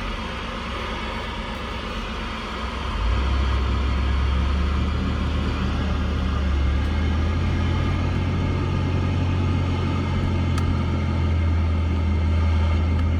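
CB radio receiver hissing with static on an open channel while the operator waits for a reply through weak skip. About three seconds in, a steady low hum comes in over the static and the sound grows louder.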